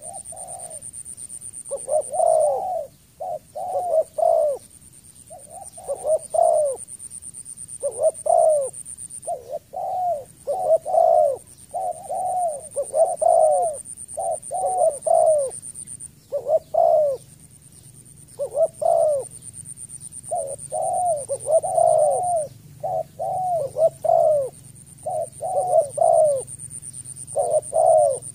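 Spotted dove cooing: short groups of two to four notes, repeated again and again with brief pauses.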